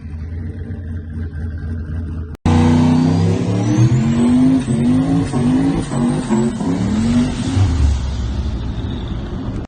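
Turbocharged LS V8 in a Dodge Dakota, running low and steady at first. After an abrupt cut it accelerates hard, with a high turbo whistle rising and the engine note climbing and dropping back several times.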